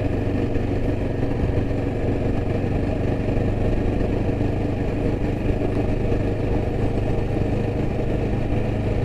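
Yezdi Adventure's single-cylinder engine running steadily under way, with no change in revs.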